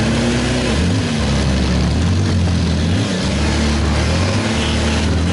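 Demolition derby vehicles' engines running in the arena, a loud, steady low drone that dips briefly a couple of times.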